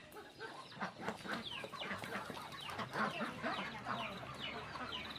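Chickens clucking, many short falling calls overlapping one another.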